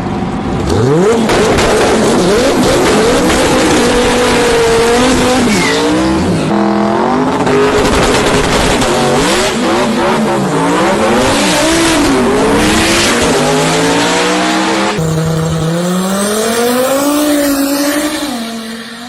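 Twin-turbo Dodge Viper V10 engine revving hard, its pitch climbing and dropping again and again as it is run up and shifted through the gears, with sudden jumps where the footage is cut. It fades out near the end.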